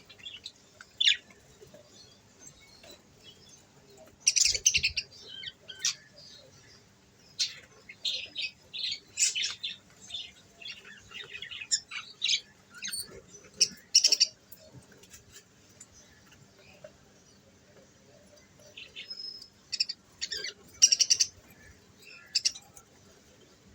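Budgerigars chirping in irregular bursts of short high calls, with a lull past the middle. There is a brief low bump about four seconds in.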